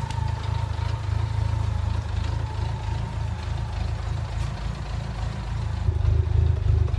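Dacia 1300's four-cylinder engine idling steadily, a little louder near the end.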